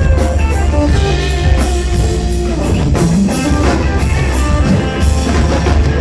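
Rock band playing an instrumental passage: electric guitar over bass and a drum kit, with an even cymbal beat.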